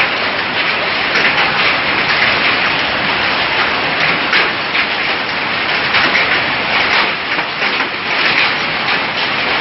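Storm rain pouring down steadily, a loud, even hiss.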